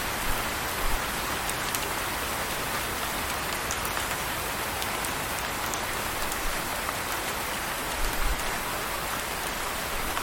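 Steady rain falling, with scattered sharp drop ticks and a few brief low thumps about a second in and again about eight seconds in.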